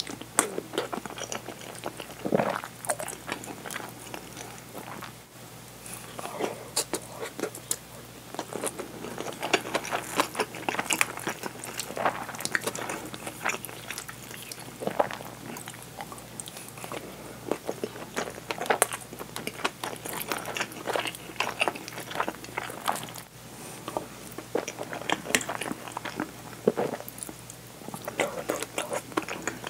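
Close-miked chewing and wet mouth sounds of a person eating curry rice with a fried egg and crunchy red pickled relish (fukujinzuke), with many small clicks and smacks and the occasional knock of a wooden spoon in the bowl.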